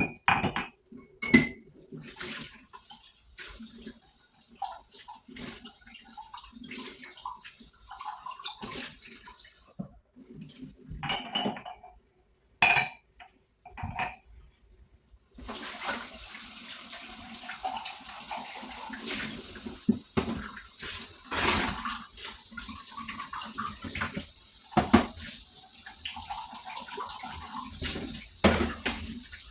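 Dishes being washed under a running kitchen tap: steady water hiss with dishes and cutlery clinking and knocking against each other and the sink. The water stops for a few seconds about a third of the way through, leaving only a few clinks, then runs again.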